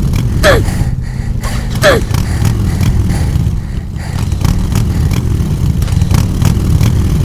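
A small engine running steadily with a low rumble and irregular clicking, with two brief falling squeaks about half a second and two seconds in.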